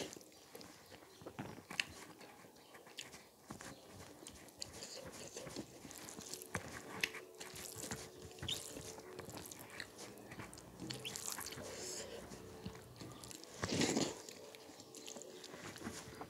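Close-miked eating sounds: chewing of chicken curry and rice, with wet mouth smacks and short crunchy clicks, and a louder burst about fourteen seconds in. A faint steady hum sits underneath from about six seconds in.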